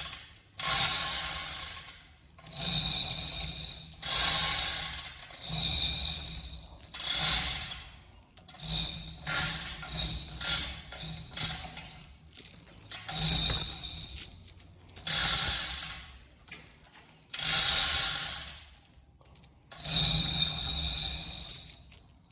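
Fishing reel being cranked in repeated spells of one to two seconds, its gears and anti-reverse giving a rapid ratcheting click, about eleven spells with short pauses between.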